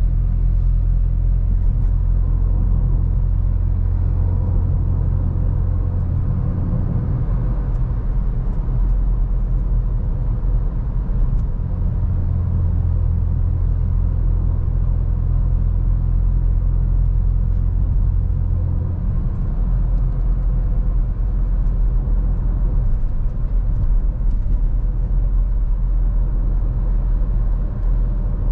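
Seat Ibiza FR's 1.0 TSI three-cylinder engine with a Friedrich sport exhaust, driving at fairly steady revs: a low, continuous exhaust drone with road rumble.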